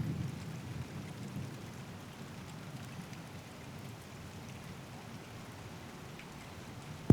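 Steady rain falling, with scattered raindrop ticks. The tail of a low thunder rumble dies away over the first second or two, and a single sharp tap comes at the very end.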